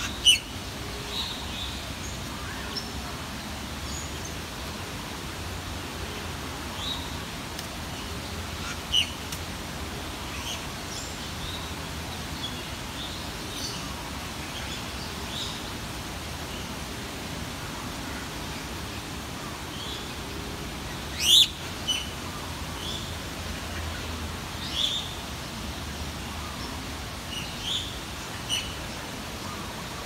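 Birds calling: scattered short chirps over a steady background hiss, with two louder, sharper calls, one right at the start and one about two-thirds of the way through.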